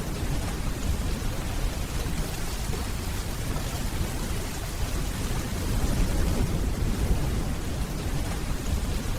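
Steady rainfall with a low, rolling rumble of distant thunder underneath, swelling slightly about six seconds in.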